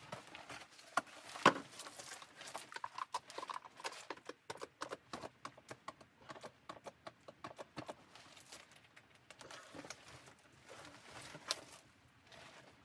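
Rapid, irregular clicking and knocking, with one sharper knock about a second and a half in, thinning out near the end.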